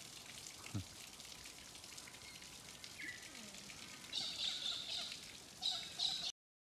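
Birds chirping in two short bursts in the second half, over a faint steady outdoor hiss; the sound cuts off abruptly near the end.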